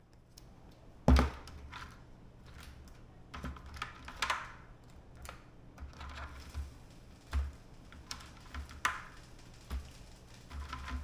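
Handling noises from the crab steaming: a loud knock about a second in, then scattered clicks and small knocks as hard crab shells and the steamer pot are handled.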